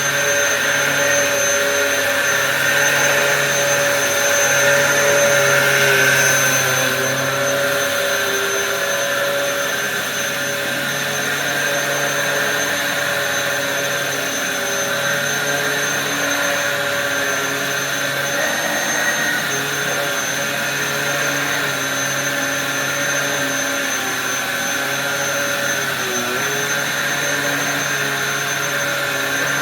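Dyson DC07 bagless upright vacuum cleaner running steadily with a constant motor whine, a little louder around five seconds in.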